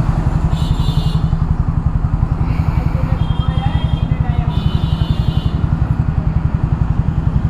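Yamaha R15 V3's single-cylinder engine idling through its modified exhaust, the stock muffler with its narrow inner pipe swapped for a wider one, giving a steady, evenly pulsing note that is loud with a lot of bass.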